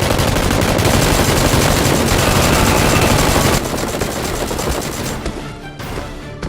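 Rapid automatic gunfire in a dense, loud burst that stops about three and a half seconds in, giving way to background music.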